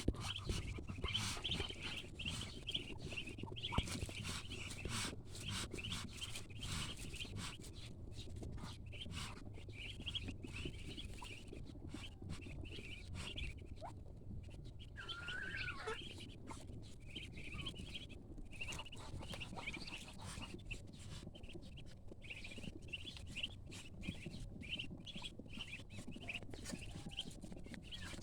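Newly hatched ducklings peeping: many short, high chirps in quick succession, with one lower, longer call about halfway through, over a low steady rumble.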